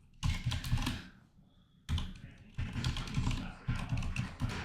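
Typing on a computer keyboard: a quick run of key clicks, a pause of about a second, then steady typing again.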